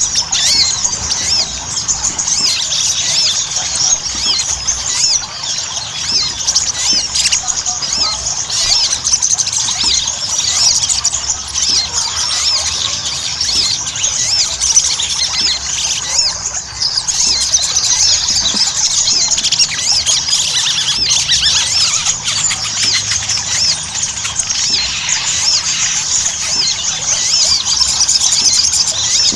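Sogon (little spiderhunter) singing without a break, an unbroken stream of rapid high squeaky chirps: a lure recording of a bird in full song, used to prompt captive sogon to sing.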